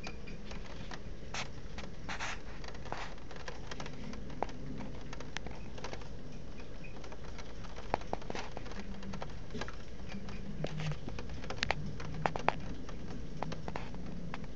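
Rain falling steadily during a thunderstorm, with irregular sharp ticks of drops striking a nearby surface.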